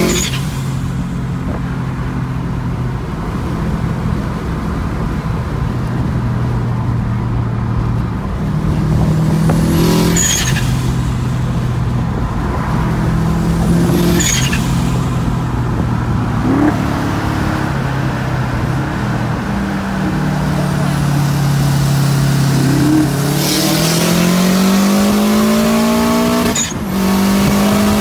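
Turbocharged 2.2-litre Subaru flat-four engine heard from inside the car's cabin, running hard at full throttle through the gears. Its note steps to a new pitch at each gear change, and a short sharp sound comes at several of the changes. Near the end the pitch sinks, then climbs steadily again as it pulls once more.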